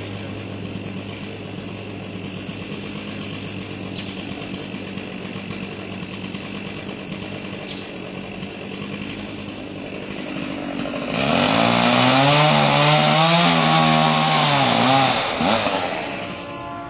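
Stihl 045 two-stroke chainsaw running steadily, then about eleven seconds in it gets much louder for around four seconds, its pitch dipping and rising as it labours through the cut, before dropping back.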